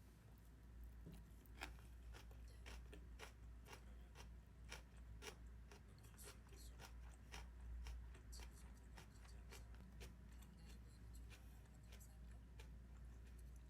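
Faint, irregular sharp clicks or snips, about one to two a second, over a low steady hum.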